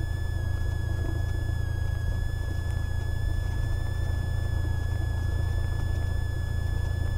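Cessna 172R's four-cylinder Lycoming engine running at low taxi power, a steady low drone with a steady high-pitched whine over it.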